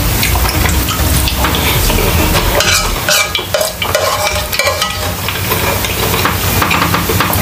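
Close-miked eating sounds: wet chewing of a mouthful of lomi noodle soup, with a spoon scooping and scraping in the bowl and many small crackles and clicks.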